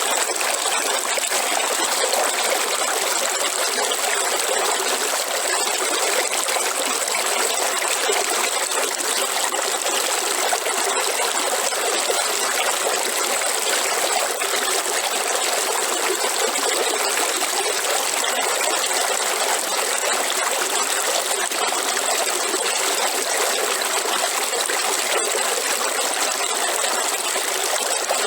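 Waterfall: water falling and rushing in a steady, unbroken rush, with no deep low end.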